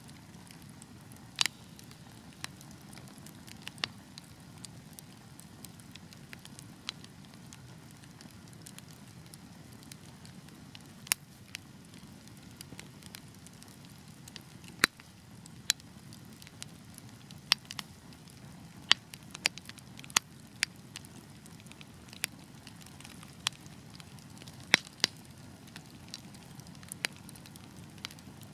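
Wood fire burning in a fireplace: a steady low rushing of the flames with sharp crackles and pops at irregular intervals, every second or two.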